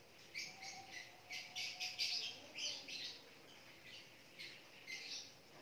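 Faint chirping of small birds: short, high chirps in quick, irregular runs.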